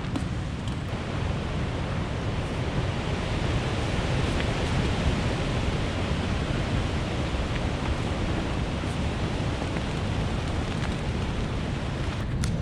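Strong storm wind rushing steadily, an even noise with no let-up.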